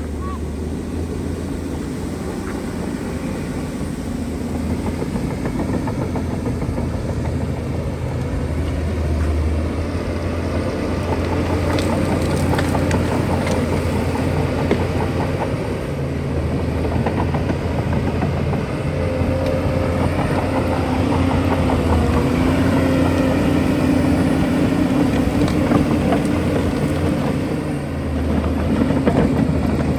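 Shantui DH17C2 bulldozer's diesel engine running steadily, its load and loudness rising and easing slightly, with a few short sharp clicks about twelve seconds in.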